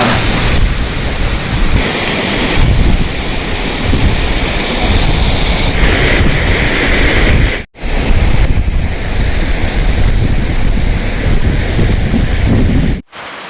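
Loud rushing water of a waterfall, with wind buffeting the microphone. The sound breaks off sharply twice, a little past halfway and near the end.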